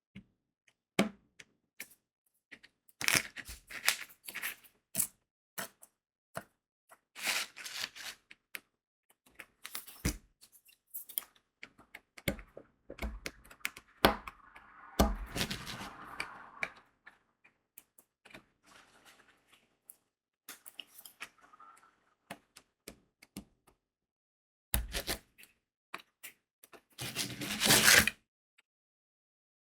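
Diamond painting work sounds: crystal drills clicking and tapping as they are pressed onto the adhesive canvas, in an irregular run of small sharp clicks. A few longer rattling, rustling stretches of about a second come in between, the loudest near the end.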